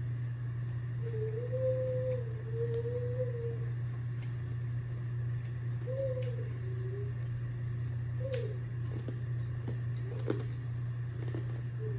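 A voice humming with the mouth closed, a wavering tone that comes and goes four times, the longest near the start, over small clicks of eating and a steady low electrical hum.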